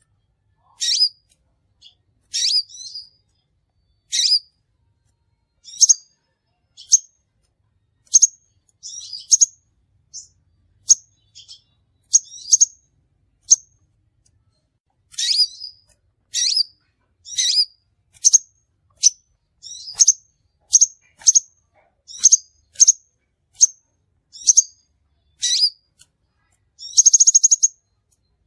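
Crimson sunbird (sepah raja) calling: a series of short, sharp, high-pitched chirps, about one or two a second with brief pauses, and a longer buzzy trill near the end. It is a lure call used to attract the species.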